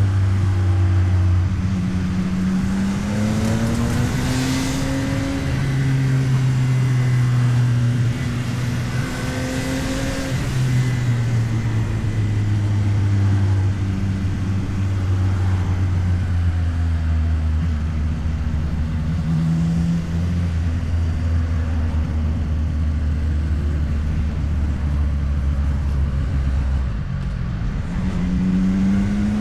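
CFMOTO 675NK's three-cylinder engine under way: its pitch climbs through several accelerations in the first ten seconds, settles lower and steadier through the middle, and climbs again near the end. Wind rush on the microphone rises during the harder pulls.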